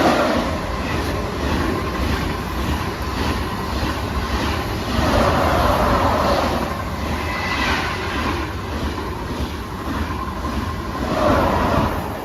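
A double-set SNCF TGV high-speed train passing through the station at speed, with a steady rumble and a rhythmic clatter of its wheels over the track.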